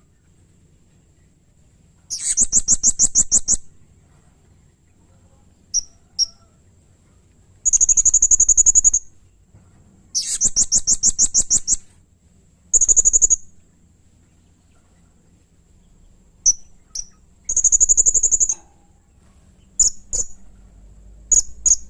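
Blue-crowned hanging parrot (serindit) calling: high, rapid pulsed trills of one to two seconds each, repeated five times, with single sharp chirps between them.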